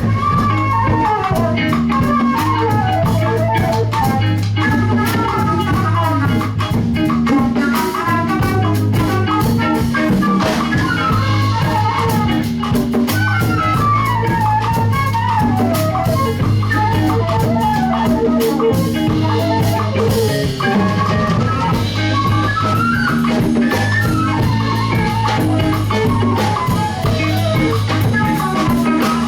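Live band playing an instrumental passage on drum kit, bass and guitar, with a lead instrument playing quick melodic runs over held bass notes.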